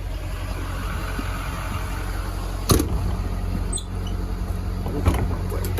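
Ford 6.7L Powerstroke V8 diesel idling with a steady low hum, with a sharp click a little under three seconds in and a lighter one near the end.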